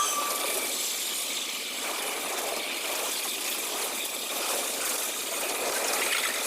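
Diesel train passing at speed: a steady loud rush of wheel and rail noise with some rattle, the tail of a horn cutting off within the first half second.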